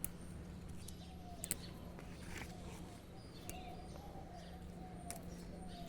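Faint outdoor garden ambience with distant birds calling and chirping, over a steady low hum, with a few sharp clicks.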